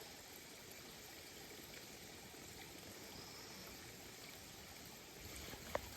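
Steady, faint rushing of a waterfall, with a single small click near the end.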